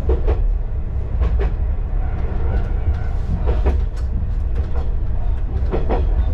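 KiHa 20 diesel railcar running along the line: a steady low drone from the engine and running gear, with several pairs of sharp wheel clacks as the wheelsets cross rail joints.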